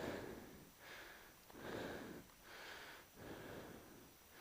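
A man breathing heavily close to the microphone, in and out in soft, even swells about once a second.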